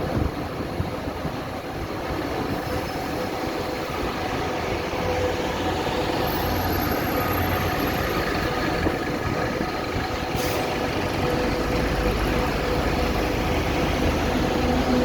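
City bus diesel engine running steadily with a low hum, growing gradually louder over the first few seconds.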